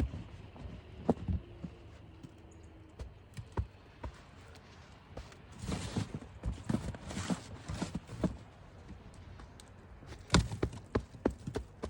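Knocks, thuds and crunches of packed snow being worked while building an igloo, with footsteps in the snow. A stretch of scraping and crunching comes about halfway through, and a sharp thud followed by a quick run of knocks comes near the end.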